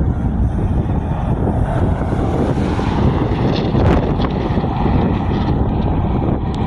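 Road traffic passing through the intersection, with a vehicle swelling louder around the middle, over a steady rumble of wind on the microphone.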